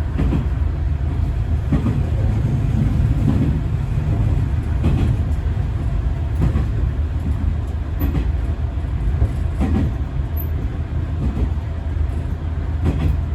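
Diesel railcar running along the line, heard from inside beside the cab: a steady low rumble with a knock about every second and a half as the wheels cross rail joints.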